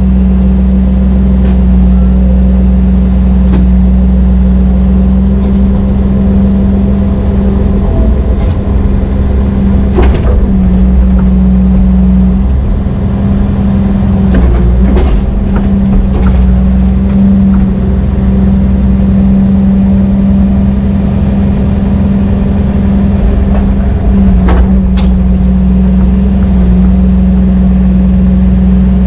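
Heavy diesel engine running steadily with a deep, constant drone, and a few sharp metallic knocks about ten, fifteen and twenty-five seconds in.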